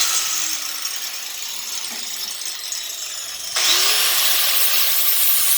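Electric cut-off tool's abrasive cut wheel grinding through steel bus-seat mounting bolts, a harsh high hiss over a motor tone that sags under load. About three and a half seconds in, the cut gets suddenly louder and the motor pitch climbs.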